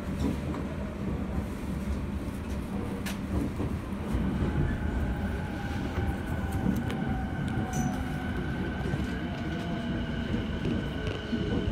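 Interior sound of a Yokosuka Line commuter train rolling slowly along a station platform: a steady rumble and hum of the car, with a high whine setting in about four seconds in.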